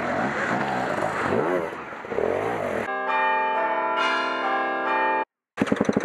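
Beta 250 dirt bike engine revving unevenly, its pitch rising and falling as the bike pushes through water and mud. About three seconds in, a steady bell-like tone of many stacked pitches cuts in abruptly, ends just as suddenly a little over two seconds later, and drops out to silence for a moment. Then the engine's rapid firing comes back.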